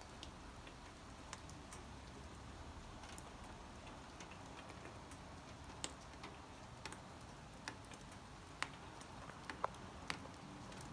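Rain drops falling irregularly: scattered sharp ticks over a faint steady hiss, more frequent and louder in the last few seconds.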